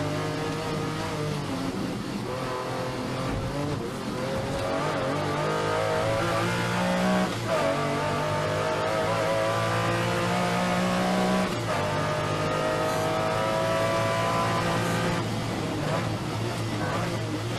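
Lamborghini Diablo V12 engine accelerating hard through the gears. Its pitch climbs, drops sharply at an upshift about seven seconds in, climbs again to a second upshift about eleven seconds in, then pulls on and eases off near the end.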